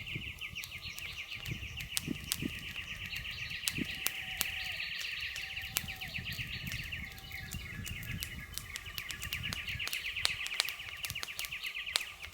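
Wood campfire crackling, with frequent sharp pops and a low rustle of burning, under a steady, rapid, high-pitched trill that cuts off suddenly near the end.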